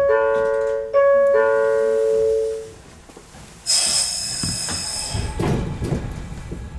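Two descending two-note electronic chimes, the door-closing chime of a 115-series one-man train. About a second after them comes a hiss of compressed air, then a low rumble builds as the train begins to move.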